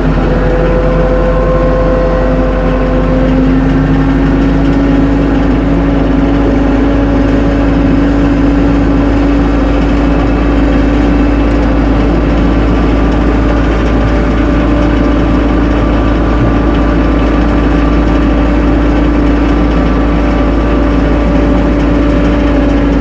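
Tractor engine running steadily at an even speed, with a steady whine over it.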